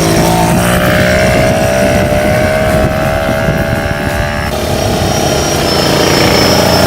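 Suvega moped's small engine running as the moped is ridden, a steady buzzing note that shifts abruptly twice.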